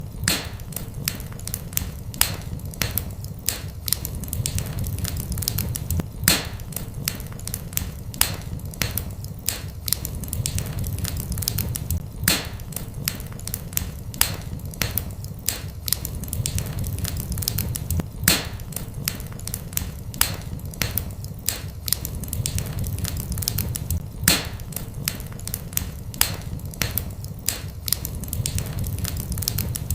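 Fireplace fire crackling steadily over a low rumble, with sharper, louder pops about every six seconds.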